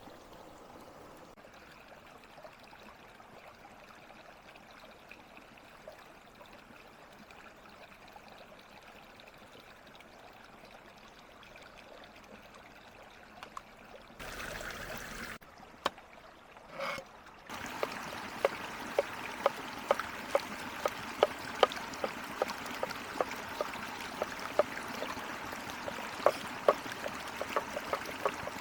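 Chicken kabobs sizzling over a charcoal grill: a faint steady hiss, then, after a break around the middle, a louder hiss with frequent sharp crackles and pops.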